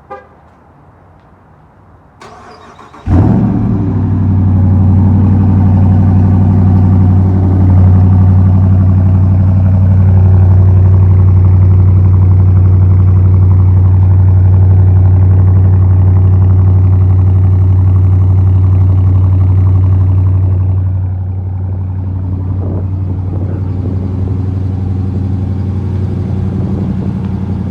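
2017 Dodge Charger Daytona's 5.7-litre Hemi V8 cold-started on its stock exhaust, mid-mufflers still fitted. The starter cranks for under a second, then the engine catches loudly and holds a steady fast idle. About twenty seconds in, the idle drops and runs quieter.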